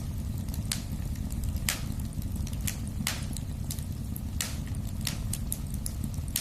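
Wood fire burning in a fireplace: a steady low rumble of flames with irregular sharp crackles and pops, a few louder snaps among many small ones.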